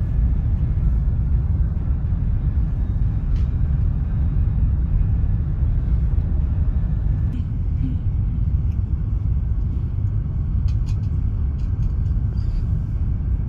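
Loud, steady low rumble, with a few faint clicks over it in the second half.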